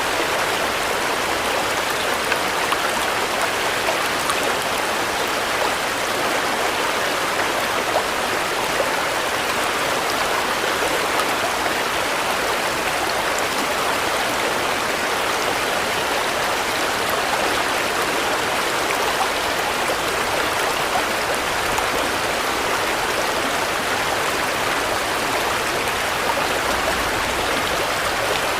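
Steady rain falling, an even hiss of many drops with faint scattered ticks of individual drops.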